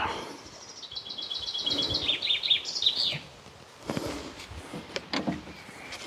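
A songbird singing a quick run of repeated high chirps for about two seconds, followed by two short knocks.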